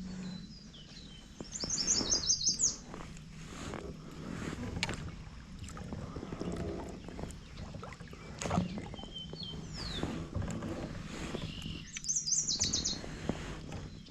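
A songbird singing a fast, high trilled phrase twice, about a second and a half in and again near the end, with a few short chips between. Scattered knocks and rustles of handling sound underneath.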